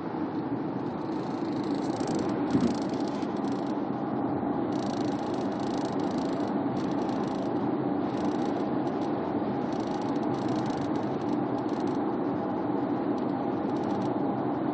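Inside a moving new Subaru Forester, steady road noise under an intermittent high-pitched rattle from the sunroof that comes and goes in short irregular bursts. The owner suspects the sunroof's wind deflector, once retracted, is vibrating with the car body.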